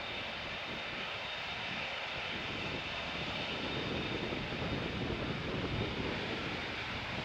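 Airbus A380 jet engines heard as a steady rumble with a faint high whine, growing a little louder in the second half as the airliner passes.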